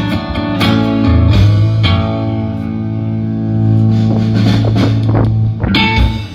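Live band with electric guitar and bass guitar playing a rock song, letting a long chord ring out over the bass, then a last strike of the strings near the end as the song finishes.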